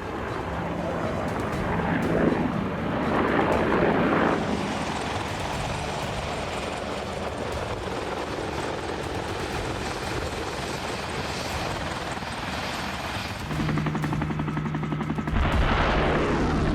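AH-64 Apache helicopter in flight: a steady rotor and turbine drone. It swells loudly as the helicopter passes about two to four seconds in, and again with a falling sweep near the end.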